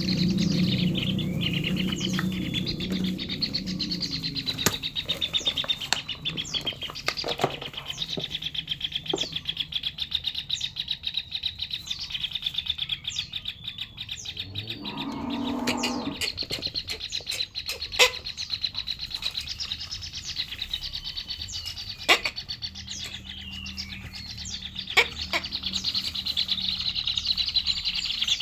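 Kingfisher chicks begging to be fed: a near-continuous, rapid buzzy trill of high calls, with a few sharp clicks now and then.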